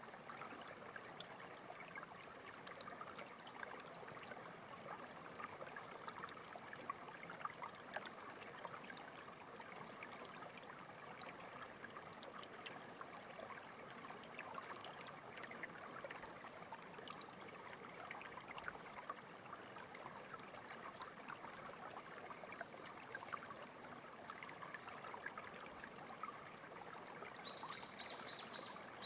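Small stream of clear water running and trickling steadily over stones, a continuous babble.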